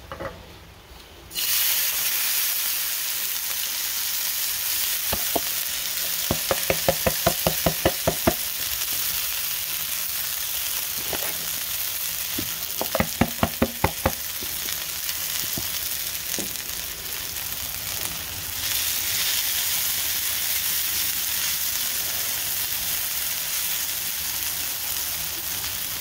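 Shredded hash brown potatoes frying in hot oil in a frying pan: a loud, steady sizzle that starts suddenly as the potatoes hit the oil. Twice, a run of quick sharp clicks sounds over it.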